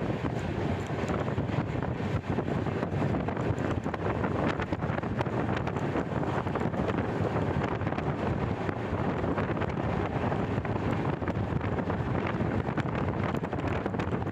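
Passenger train running at speed, heard from an open coach door, with wind blowing across the microphone.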